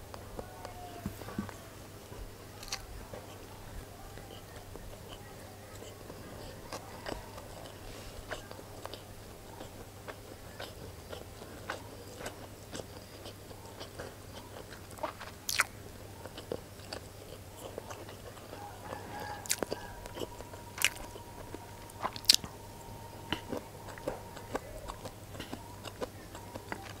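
Close-miked chewing and mouth sounds of someone eating fried rice, with scattered small clicks and several sharper, louder clicks in the second half.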